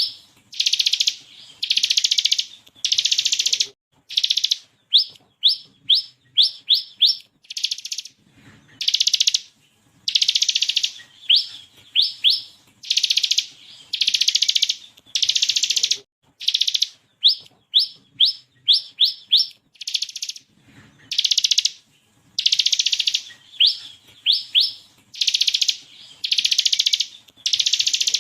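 Bar-winged prinia (ciblek kristal) singing in a lively, full-voiced way: buzzy rattling trills, each half a second to a second long, alternate with quick runs of three to six sharp, rising whistled notes. The bird keeps this up again and again without a break.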